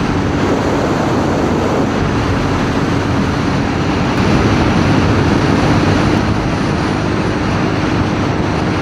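CFMoto 450NK motorcycle riding at road speed: a steady rush of wind and road noise, with the engine's steady hum underneath.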